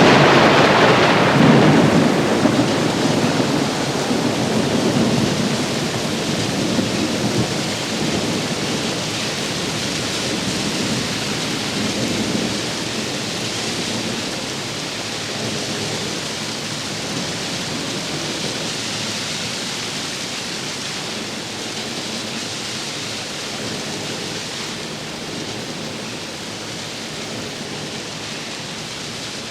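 Recorded rain-and-thunder outro of a heavy-metal track: a thunder rumble at the start gives way to steady heavy rain that slowly fades.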